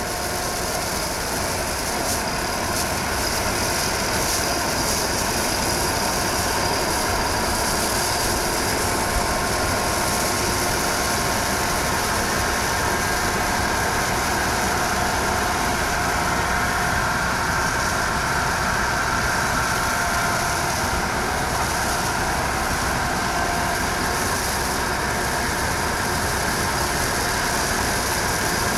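Stone slinger truck's engine running steadily, with a steady mechanical whine over it.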